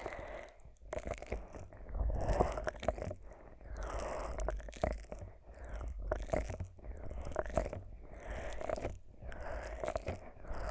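Fingers rubbing and pressing thick Vaseline over the silicone ears of a 3Dio binaural microphone, a sticky, crackling squish in irregular strokes. The strokes swell and fade every second or two, with brief moments where the sound drops out.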